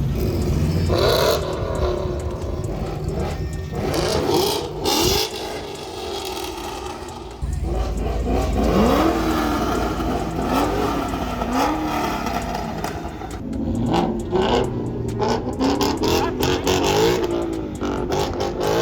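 Car engines revving over steady traffic rumble, their pitch rising and falling several times.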